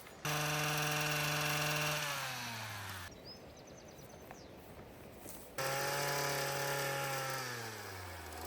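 Two-stroke chainsaw running at high revs in two spells of a few seconds each, with a quiet gap between. Each time its pitch sags as the chain bites into mimosa wood.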